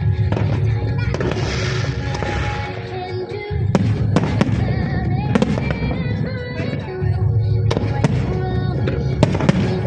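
Fireworks bursting in sharp bangs, scattered irregularly through the second half, over loud show music with a heavy bass.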